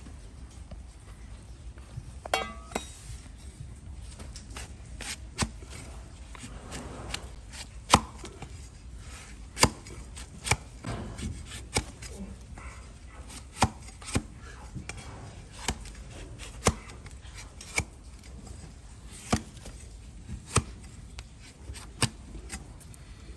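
Hoof knife or shovel cutting into a donkey's overgrown hoof horn: crisp, sharp cuts at irregular intervals, roughly one a second.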